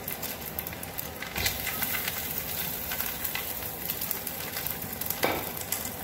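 Oil and blended chilli, garlic and anchovy paste sizzling steadily in a steel wok as cooked rice is tipped in from a pot. There is a dull thump about one and a half seconds in and a sharp knock near the end.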